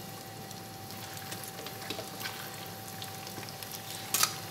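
Breaded cauliflower florets frying in hot oil in a pan: a steady sizzle with small crackles and pops. A sharp clink sounds once near the end.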